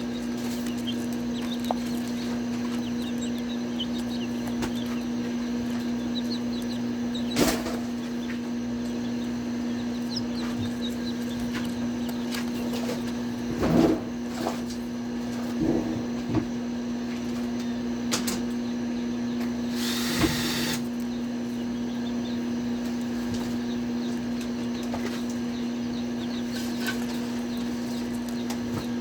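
Faint peeping of young chicks over a steady low hum from a machine or appliance, with a few knocks and clatters and a short scraping rasp about twenty seconds in.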